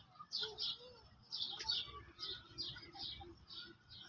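Birds chirping: a steady run of short, high chirps, about three a second.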